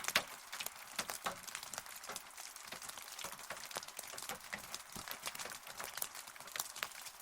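Rain falling, with many separate drops striking close by as a dense run of sharp ticks over a steady hiss.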